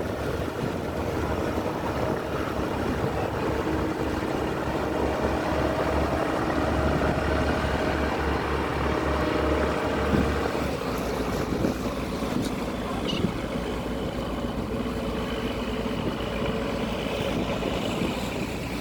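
A fishing boat's engine running with a steady drone, its lowest note shifting about halfway through.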